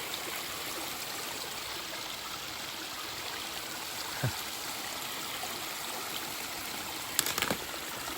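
Creek water flowing steadily, with a few brief knocks near the end.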